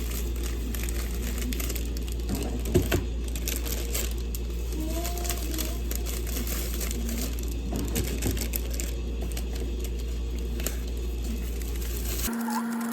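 Baking prep-work sounds: light clicks, crinkling and two sharper knocks a little before three seconds in, over a steady low hum. The hum cuts off just before the end.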